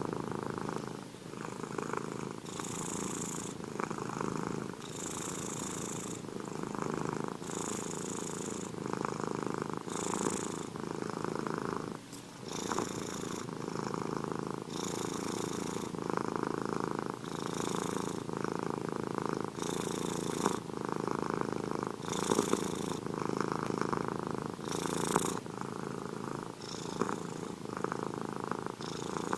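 Domestic cat purring steadily close to the microphone, the purr swelling in a regular cycle about every two and a half seconds.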